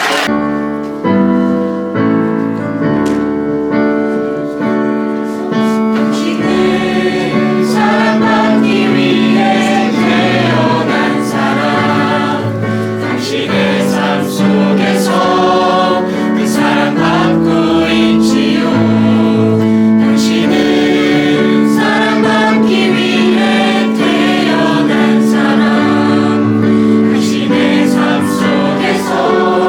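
A choir sings a gospel-style worship song with instrumental accompaniment, starting abruptly at the beginning.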